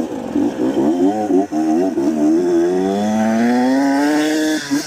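A 125 cc motorcycle engine under throttle. Its pitch wavers at first, then climbs steadily for about two seconds as the bike accelerates, and drops sharply near the end.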